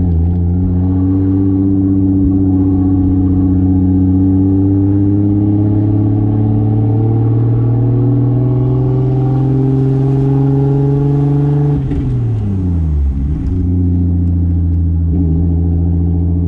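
1995 Toyota Soarer's single-turbo 2JZ inline-six accelerating, its pitch climbing slowly and steadily for about twelve seconds. The revs then drop quickly and settle into a steady lower drone.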